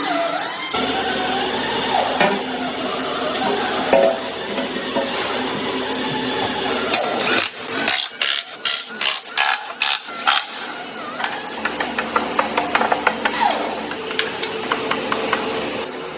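Factory machinery and tools: a steady mechanical hum, with a run of about eight short, sharp hissing bursts in the middle, then quick clicking near the end.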